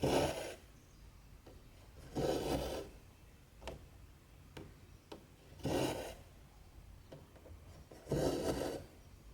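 Cotton embroidery thread being drawn through cross-stitch fabric: four rasping pulls, each about half a second long and two to three seconds apart, with a few faint ticks in between.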